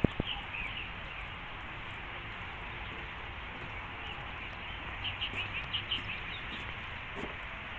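Birds chirping in short runs of quick high notes, once near the start and again around five to six seconds in, over a steady outdoor hiss. A single sharp knock sounds at the very start.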